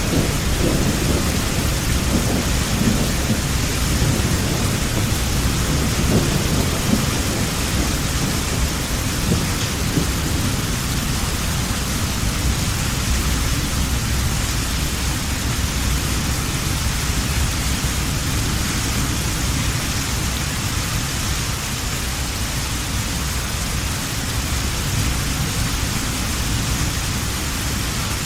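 Steady heavy rain with rolling thunder rumbling low, strongest in the first few seconds and fading away, leaving the rain alone.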